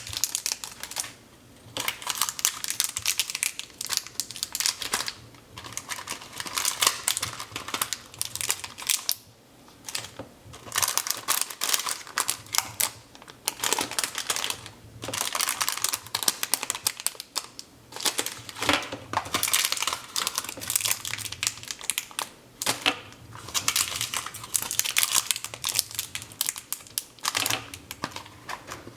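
Plastic wrapping crinkling in irregular bursts with short pauses, as hands unwrap and handle candy and small items from a toy surprise egg.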